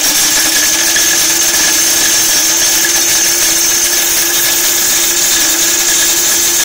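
Breville electric coffee grinder running at full speed on small cut-up pieces of a plastic credit card: a loud, steady motor whine that cuts off suddenly at the end.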